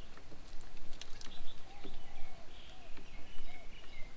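Several birds calling together: a run of short, arched notes repeating, with higher whistled notes and a few sharp clicks over them.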